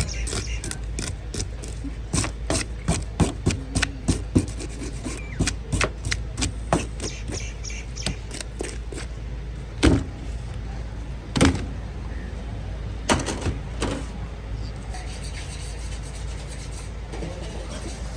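A run of irregular sharp knocks with rubbing and scraping between them, over a steady low hum. The knocks come quickly at first, then a few louder single knocks follow before it settles.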